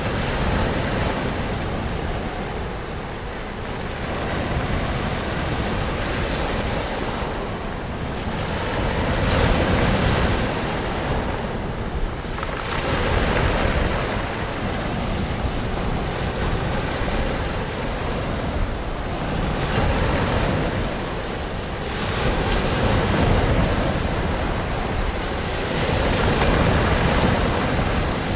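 Ocean surf: waves breaking and washing in continuously. The rush swells and eases every three to five seconds.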